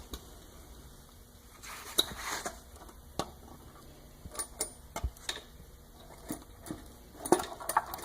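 Scattered, irregular metallic clicks and clinks of hand tools and bolts as a valve cover is fitted onto a V8 engine.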